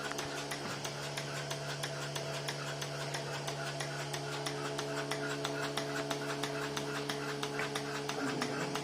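Petrol-engine-driven milking machine running: a steady hum with several quick, even ticks a second.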